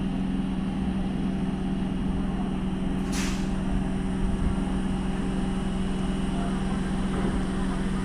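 Indian Railways EMU train's steady electrical hum over a noisy rumble, with a brief hiss about three seconds in.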